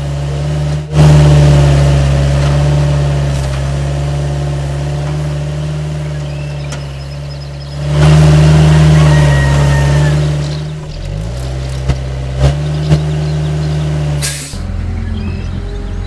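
A vehicle engine running steadily, growing louder about a second in and again around eight seconds, then dropping and shifting pitch. Three short sharp clicks come near the end.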